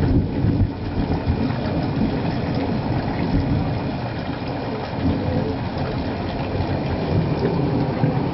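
Thunderstorm: a steady low rumble of thunder together with rain.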